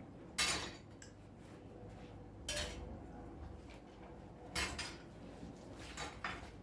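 Dishes and cutlery clinking and clattering as they are handled, in about five separate sharp clatters spaced a second or two apart.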